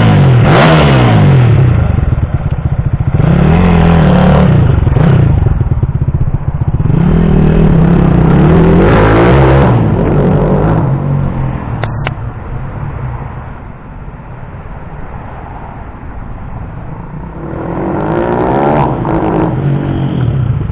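Kawasaki KSR 110's single-cylinder four-stroke engine revving up and down several times, rising and falling in pitch with each rev. It drops quieter for a few seconds past the middle, then revs hard again near the end.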